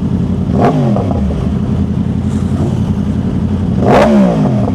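Sport motorcycle engine running under way, its revs falling away twice: once about a second in, and again, louder, near the end as the rider rolls off the throttle.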